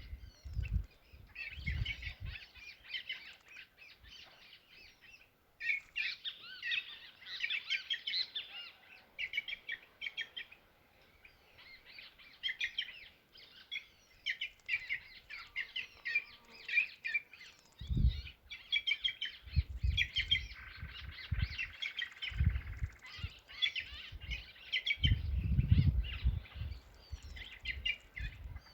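Many small birds chirping and twittering at once, a dense chorus of short overlapping calls with a brief lull partway through. Low dull bumps come at the start and repeatedly in the second half.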